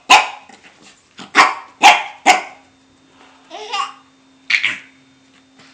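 Puppy barking: a quick run of sharp barks in the first half, then a short lull and a few more barks.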